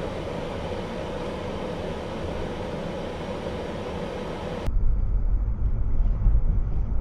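Road and running noise of a moving car as a dashcam picks it up. A steady rushing hiss with a faint steady tone changes abruptly about two-thirds of the way through to a louder, deep rumble.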